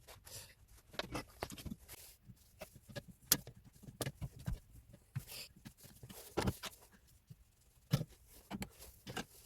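Irregular clicks, clinks and knocks of hand tools and metal parts being handled on the engine as it is dismantled, a few of them louder taps.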